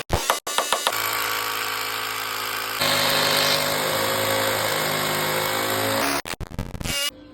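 An electric power tool running steadily, with a steady hum that gets louder about three seconds in. A few sharp knocks come at the start, and the sound breaks up in short choppy cuts near the end.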